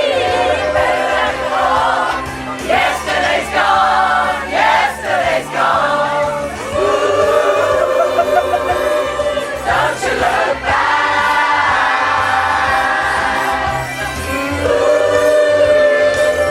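A choir singing a pop song with backing music and a steady bass beat.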